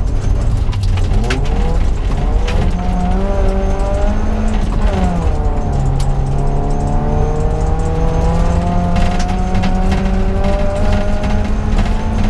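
In-cabin sound of a BMW 318is (E30) rally car's four-cylinder engine pulling hard. The revs rise and fall briefly around two and five seconds in, then climb steadily through the rest. Scattered sharp clicks sound over the engine.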